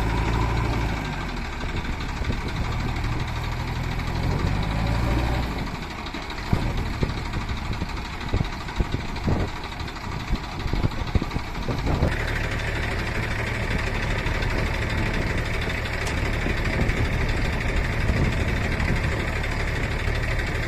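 Diesel engine of a tractor or backhoe loader running steadily, with a run of irregular sharp knocks through the middle stretch, then running on with a brighter, harder note.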